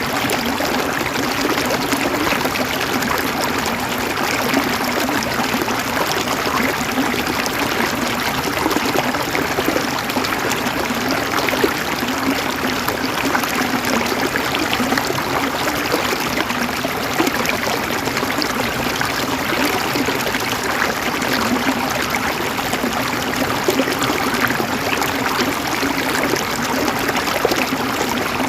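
Stream of water flowing and splashing steadily, a dense, even rush with fine trickling detail.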